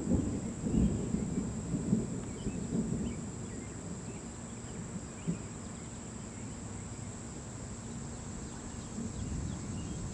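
Thunder rumbling in low rolling pulses over the first few seconds, then dying away. Under it runs a steady high-pitched drone of insects.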